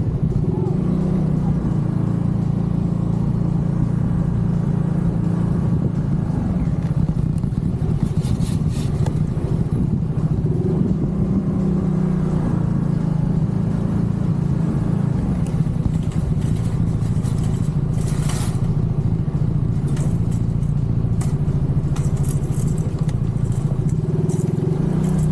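Genuine Buddy 170i scooter's single-cylinder four-stroke engine running at a steady speed, with a few light clicks and rattles.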